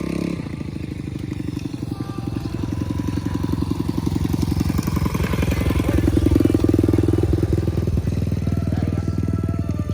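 Dirt bike engine running at low, steady revs, its firing pulses growing louder over the first six seconds or so and easing a little after.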